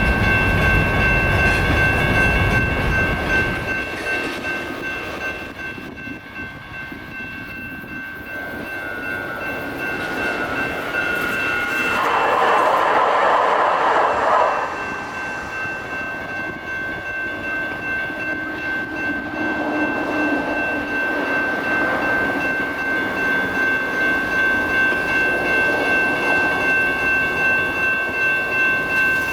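Electronic railroad crossing bells (GS e-bells) ringing steadily, stopping right at the end. A train rumbles past at first and fades within a few seconds. About twelve seconds in there is a loud two-second blast, and later a regular pulsing rhythm.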